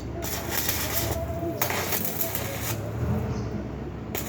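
Arc welding on steel foundation bolts: the arc crackles and hisses in stretches of about a second each, over a low steady hum.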